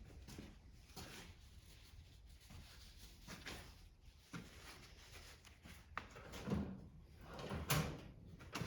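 Scattered light clicks and knocks of hand tools and metal engine parts being handled during small-engine disassembly, with a few louder clunks in the last few seconds.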